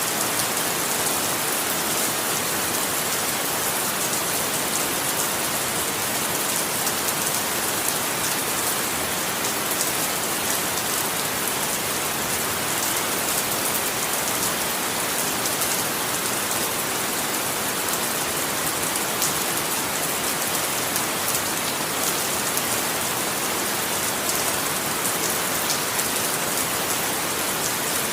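Steady rain falling, an even hiss of many drops with fine patters of individual drops hitting a surface.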